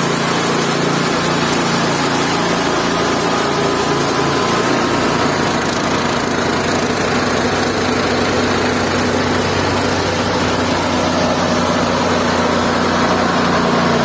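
Mobile band sawmill running steadily with its motor going; a high hiss in the sound stops about four and a half seconds in.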